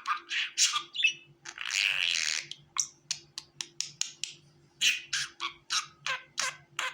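Budgerigars chirping in quick, short calls, with one longer, harsh squawk about two seconds in.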